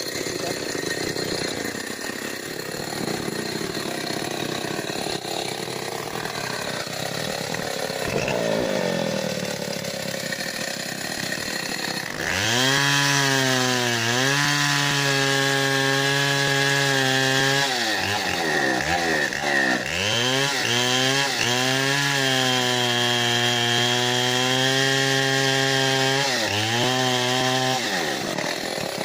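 Big two-stroke Stihl 070 chainsaw running rough and low for about twelve seconds, then opened up to full revs and held there; the revs sag and climb back once midway, then hold high again before dropping back near the end.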